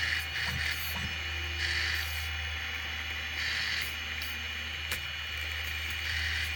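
Cheap 5015 radial blower fan (the printer's part-cooling fan) running with a steady whine and a rough noise that swells and fades every second or two: the fan has turned noisy and starts badly after only five days of use.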